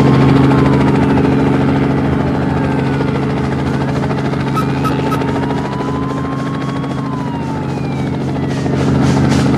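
Cartoon helicopter sound effect: a steady engine and rotor hum with a whine that slowly rises and falls in pitch, twice.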